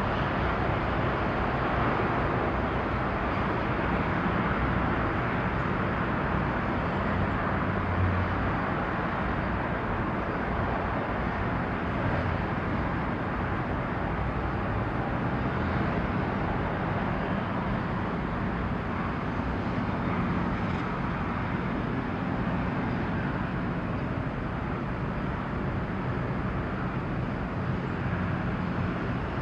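Steady outdoor harbour ambience: a constant wash of noise with a faint low hum underneath and no distinct events.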